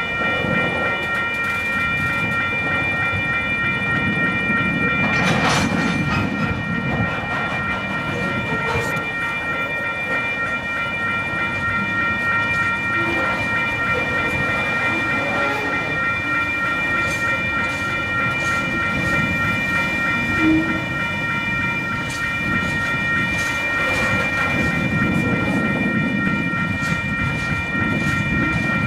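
Container wagons of a slow freight train rolling over a level crossing: a steady low rumble of wheels on rail, with scattered clicks and knocks. A steady high ringing tone sits over it throughout.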